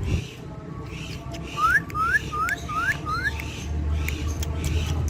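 A parrot whistling a quick run of five short rising notes.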